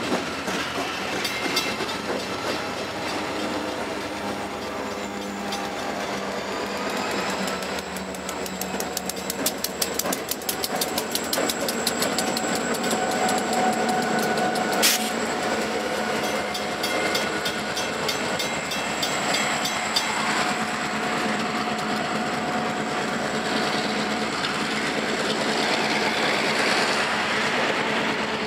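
A freight train's block of diesel locomotives rolling past, engines running and wheels clacking steadily over the rail joints. There is one sharp click about 15 seconds in.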